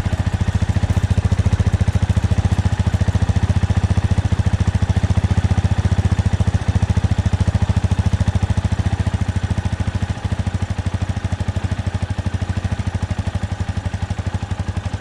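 Small engine running steadily with a rapid, even putter.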